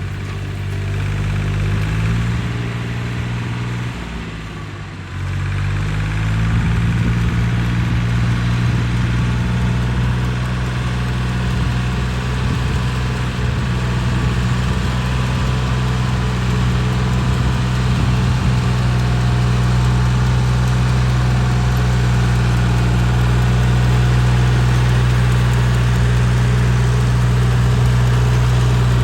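Motor-cultivator (walk-behind tiller) engine running steadily for rotary tilling; its speed rises about a second and a half in, dips briefly around four seconds in, then picks up again and holds.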